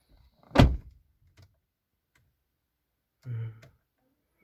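A single sharp knock about half a second in, followed by a few faint ticks, then a brief low hum near the end.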